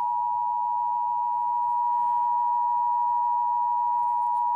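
Emergency Alert System two-tone attention signal: a loud, steady dual tone of two pitches close together just under 1 kHz, held without a break, signalling that an emergency alert message follows.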